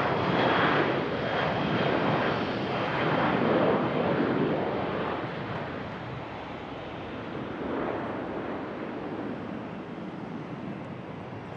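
Boeing 737 Business Jet's twin jet engines passing by: a loud rushing noise with a faint high whine at first, then fading away steadily as the jet moves off.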